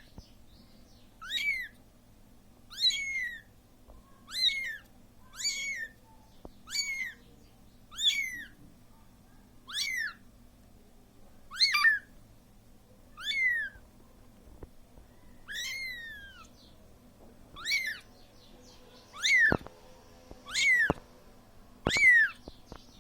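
Siamese kitten meowing over and over, calling for its mother. It gives short, high-pitched cries that fall in pitch, one about every one and a half seconds.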